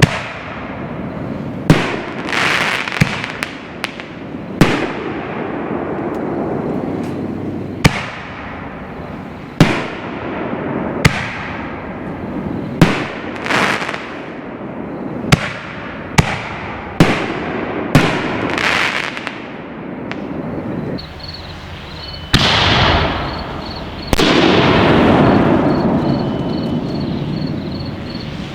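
5-inch canister firework shells bursting in the air, one after another: about fifteen sharp, loud reports, each followed by a long echo rolling back off the hills. Two of the biggest come near the end.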